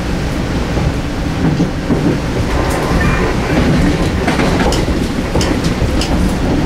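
Metro-North M2 electric multiple-unit train running along the line, heard from inside the passenger car: a steady rumble of wheels on rail with sharp clicks every second or so from rail joints.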